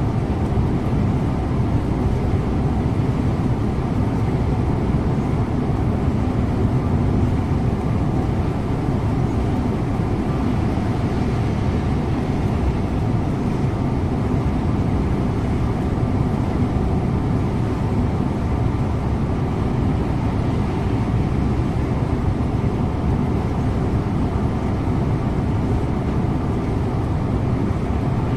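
Scania InterLink coach driving at a steady speed: a constant drone of engine and tyre noise with no changes in pace.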